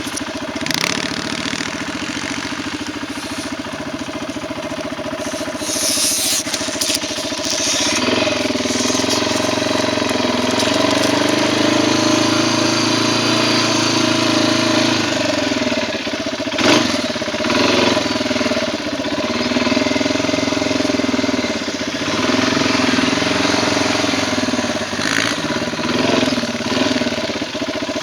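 Quad (ATV) engine running steadily near idle, its note rising a little for several seconds in the middle, with a few brief louder swells.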